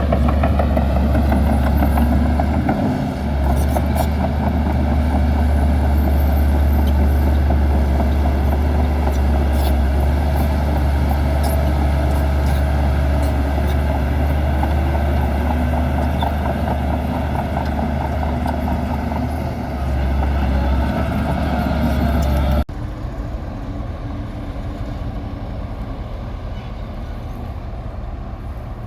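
Bulldozer's heavy diesel engine running with a steady low drone, with light ticks and rattles from the machine. About 23 seconds in, the sound cuts abruptly to a quieter engine running.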